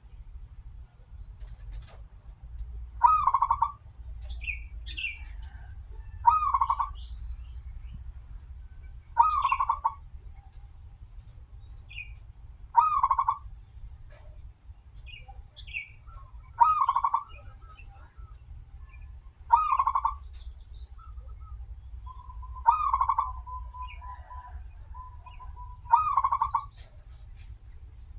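Zebra dove (perkutut) cooing, a short rolling phrase repeated about every three seconds, eight times. Fainter high chirps from other small birds fall between the calls, over a low steady hum.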